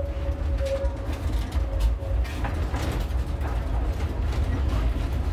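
Tram running: a steady low rumble with repeated knocks, clicks and creaks, and a whine that fades out in the first two seconds.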